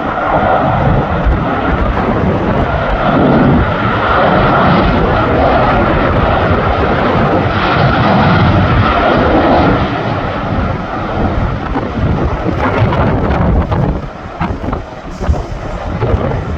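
Jet engines of a landing Southwest Airlines Boeing 737, a loud steady roar that drops away about fourteen seconds in.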